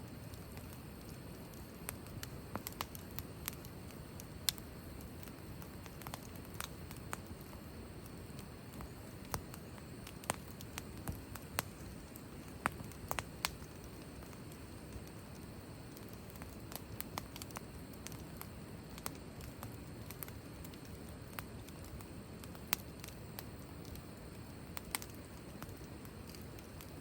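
Wood fire burning in a fire stand: scattered sharp crackles and pops at irregular intervals over a steady low rush of flame.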